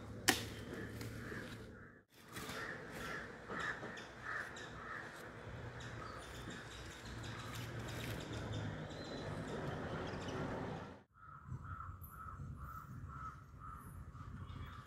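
Birds calling repeatedly over outdoor background noise, with a sharp click just after the start. The sound drops out abruptly twice.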